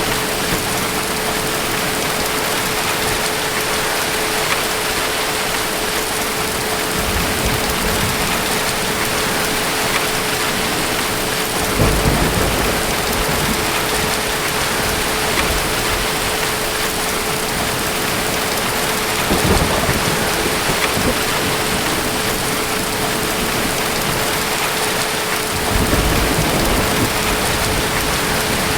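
Steady heavy rain with low rolls of distant thunder: the strongest starts suddenly about twelve seconds in, with others near twenty seconds and near the end. A steady tone sits under the rain.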